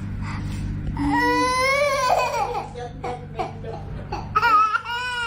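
A cat meowing: one long, drawn-out call about a second in, then shorter calls near the end, over a steady low hum.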